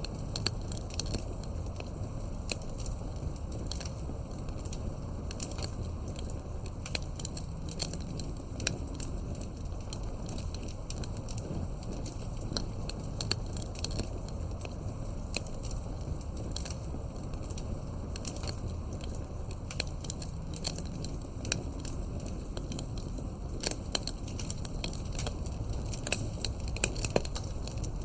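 Campfire crackling: irregular sharp pops and snaps of burning wood over a steady low rush of flame.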